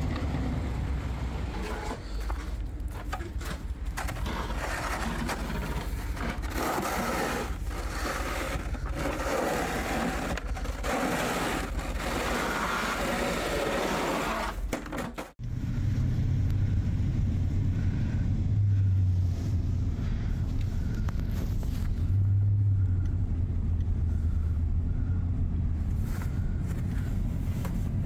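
Snowplow truck at work: a steady scraping hiss with engine noise underneath, as of the plow blade riding over pavement. About halfway it cuts off suddenly and gives way to the truck's engine running steadily, a low rumble that swells a couple of times.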